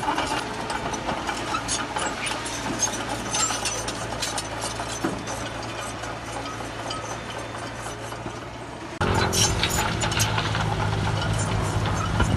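Heavy diesel earthmoving machinery running steadily, with scattered clanks and clicks. About nine seconds in it suddenly becomes louder, with a deeper, fuller engine note.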